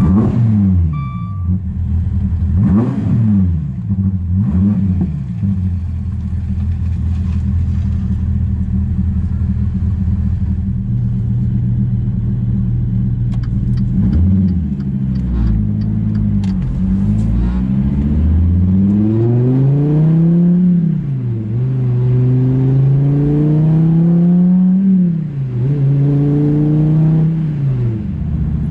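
Dodge Viper ACR's 8.4-litre V10 with side-exit exhaust pipes: a few quick revs at first, then a steady stretch, then several long pulls up through the revs, each ending in a sudden drop in pitch at a gear change. A short electronic warning beep sounds in the first second.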